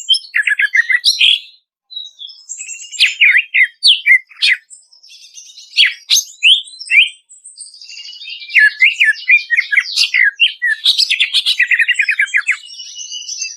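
Cucak ijo (green leafbird) song: a loud, rapid chatter of sharp, varied whistled notes and sweeps, with a brief pause about two seconds in. It builds into a dense, fast trill in the second half.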